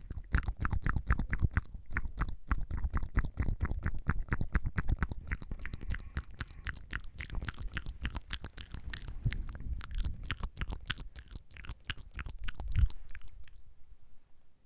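Close-miked wet mouth sounds: rapid tongue fluttering, a fast run of many small wet clicks and pops each second, which stops about a second before the end.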